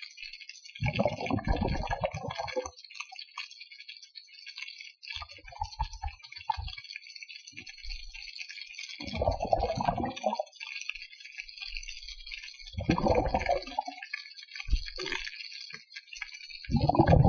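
Water sounds while snorkeling: a constant fine crackle, with four louder swishing surges of water, about a second in, around nine seconds, around thirteen seconds and at the very end.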